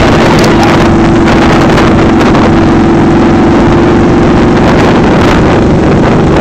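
Motorcycle engine running at a steady pitch, with heavy wind noise on the microphone.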